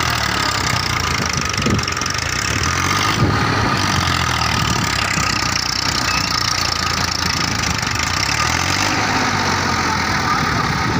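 Massey Ferguson 1035 DI tractor's three-cylinder diesel engine running steadily at low speed.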